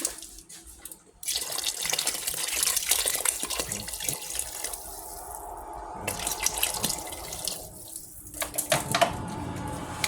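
Water running from a kitchen tap, starting about a second in and easing off around the middle before running again, with short clinks of a pot or utensils near the end.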